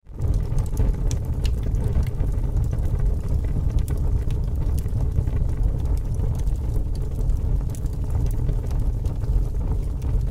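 Fire crackling: a steady low rumble of flames with scattered sharp pops and snaps throughout.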